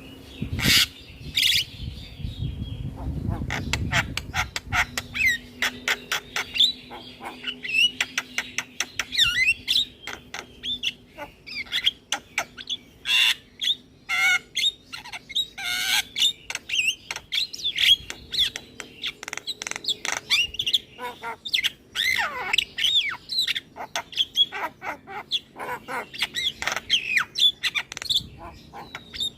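Javan myna (jalak kebo) calling vigorously: a fast, unbroken run of harsh squawks, sharp clicks and short whistled notes, with some low rumble in the first few seconds.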